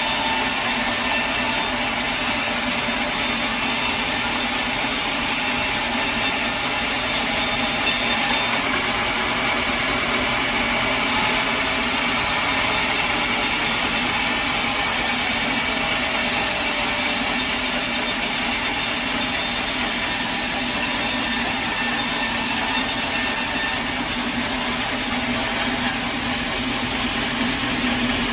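Sawmill saw blade cutting lengthwise through a log, running steadily, with one short sharp click near the end.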